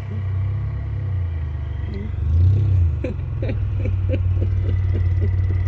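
1997 Audi A6 Quattro's engine running with a low rumble, revving up and back down a little past two seconds in as the car spins donuts in snow. A quick run of short knocks follows in the second half.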